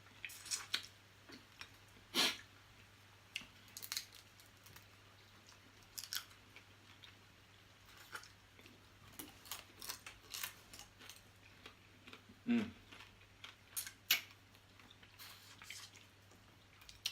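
Close-miked eating of small blue crabs: irregular cracks and clicks of crab shell being broken, with chewing, sucking and smacking. A short falling sound comes about twelve and a half seconds in.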